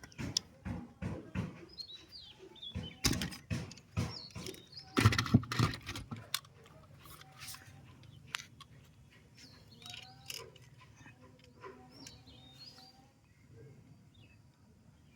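A string of sharp clicks and knocks, loudest around five seconds in, then quieter from about six seconds on. Faint bird chirps in the background.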